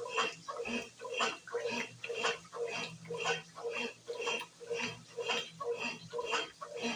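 Brastemp BWG11 11 kg washing machine in its wash phase, churning a load of bedding and towels in water with a regular swish-and-slosh, about two strokes a second, over a low motor hum.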